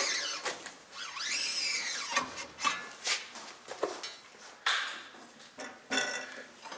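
Metal parts and tools being handled while a screw is fitted: a string of clinks and knocks, with a rising and falling squeal about a second in.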